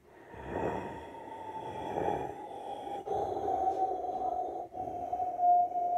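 Boeing 777-300's jet engines at take-off power as the airliner departs: a steady rumble under a high whine that slowly falls in pitch.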